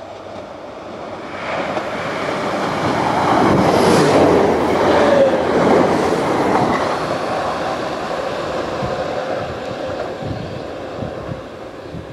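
Northern Class 769 multiple-unit train passing through a station, its engine and wheel noise building to a peak about four to six seconds in and then fading as it runs away. A run of wheel clacks over rail joints comes near the end.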